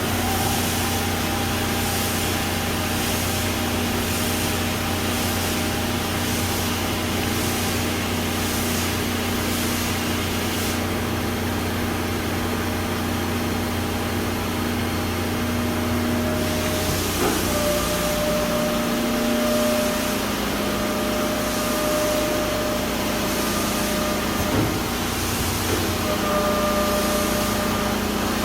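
Ski-base grinding machine running steadily, its motor humming under a hiss of coolant spray, during base flattening and structuring of a race ski. The pitch of the hum shifts about two-thirds of the way through.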